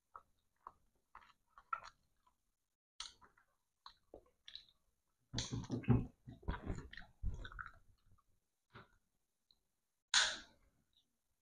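Close-up eating sounds: chewing with wet smacks and mouth clicks, scattered at first and denser in the middle. One louder, breathy sound comes about ten seconds in.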